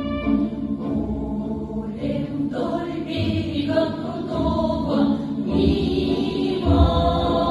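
A Russian-song ensemble's choir singing in unison with instrumental accompaniment; the voices enter about two and a half seconds in, after the instrumental introduction.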